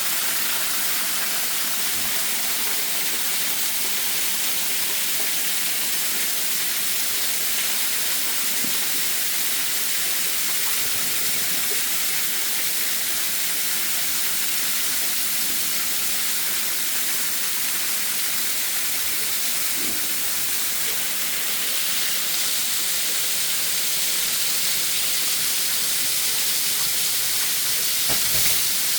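Waterfall: a steady, unbroken hiss of falling water, with a brief low thump near the end.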